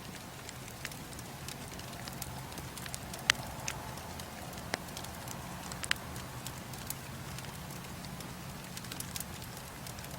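Bonfire burning with a steady low hiss and scattered sharp pops and crackles, the loudest about three and six seconds in.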